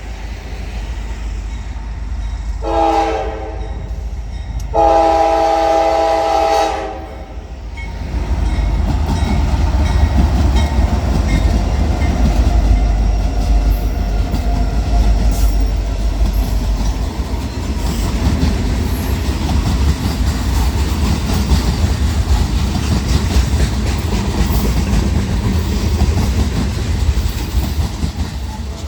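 Train horn, a chord of several tones, sounding a short blast and then a longer one. After that the train passes close by with a loud, steady low rumble and the clatter of wheels on rail.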